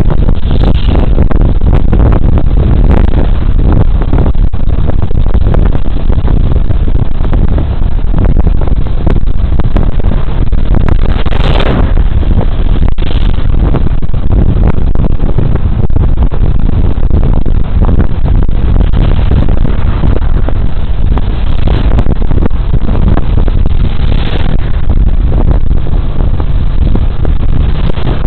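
Wind rumbling over a body camera's microphone on a moving Suzuki Burgman Street 125 scooter, with the scooter's single-cylinder engine and road noise running steadily underneath. There is a brief louder rush about eleven seconds in.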